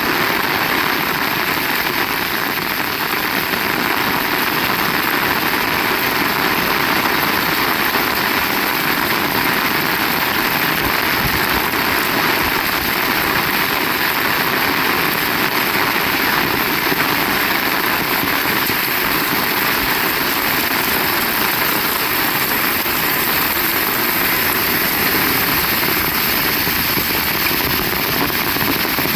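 Heavy rain falling, a dense and steady hiss.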